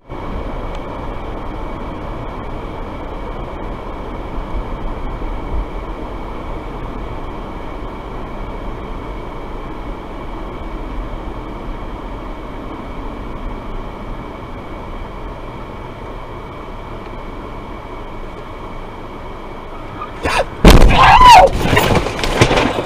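Steady road and engine noise of a car in motion, recorded by a dashcam. Near the end a loud, sudden noise lasting about two seconds cuts in, with a wavering pitched sound in it.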